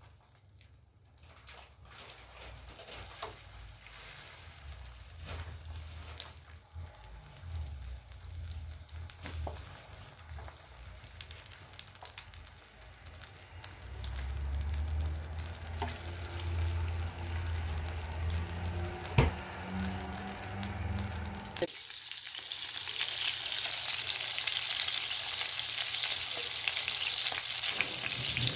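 Egg-battered pollack fillets sizzling in oil on an electric skillet, with occasional light clicks. About two-thirds of the way through, the sizzle becomes suddenly much louder and denser.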